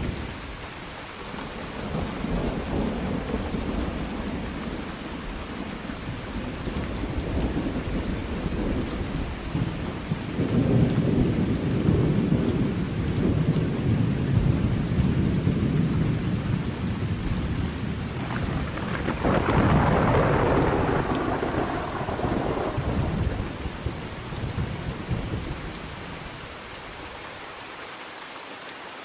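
Steady rain falling with rolling thunder: long low rumbles swell and fade, the loudest in the middle, and a sharper clap about 19 seconds in that rumbles away, leaving only rain near the end.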